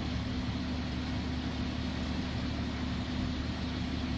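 SUV engine idling with a steady, unchanging low hum.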